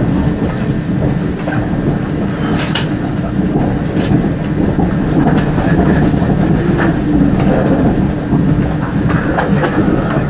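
Interior running noise of a Class 387 electric multiple unit drawing into a terminus platform: a steady rumble of wheels on rail with a steady hum and scattered clicks from the track.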